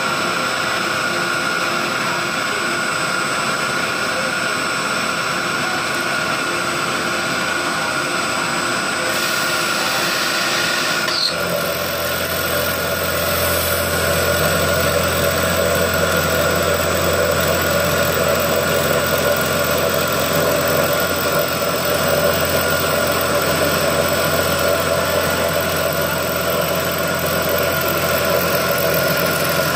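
CNC milling machine running with a steady whine made of several held high tones. About eleven seconds in, a lower hum joins and the sound grows slightly louder.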